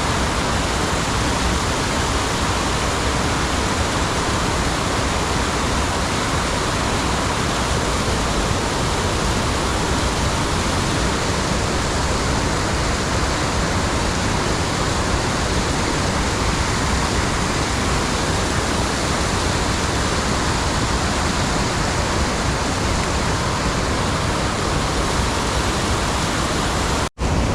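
Creek water rushing steadily, a loud even hiss with no pitch, cut off abruptly for an instant near the end.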